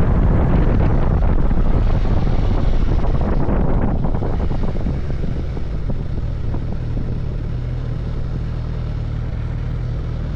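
Suzuki GSX-S1000GT's inline-four engine under way with wind rushing over the microphone. About four seconds in, the wind and engine noise drop away, leaving the engine running with a steady low note.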